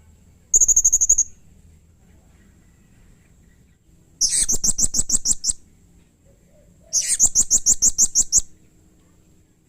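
Blue-crowned hanging parrot (serindit) giving rapid, shrill, evenly repeated chattering calls in three bouts: a short one under a second in, then two longer runs of about a second and a half each.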